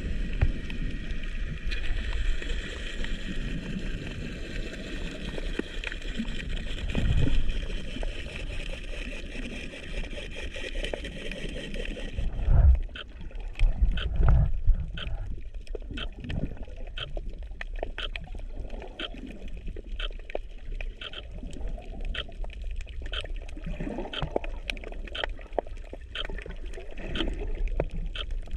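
Water sound picked up by a GoPro in its underwater housing: surges and gurgles of moving water, with a steady high hum in the first half that stops about twelve seconds in, after which scattered sharp clicks crackle through to the end.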